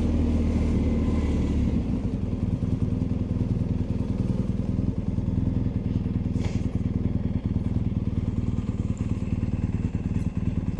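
BMW R1250GSA's boxer-twin engine running at low revs on the move, a steady low rumble with rapid firing pulses. The deepest part of the rumble drops away about two seconds in.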